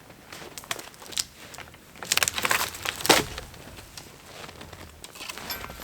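Dead, partly rotten wood crackling and crunching as it is broken apart. The crackling is densest in the middle, with one loudest sharp crack about three seconds in.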